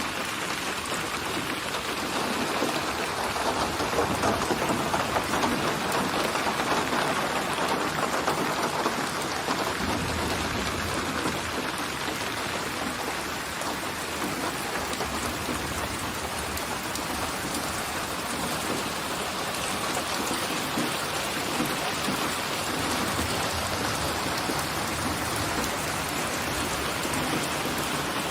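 Steady rain falling on a surface, a dense even patter that swells a little a few seconds in.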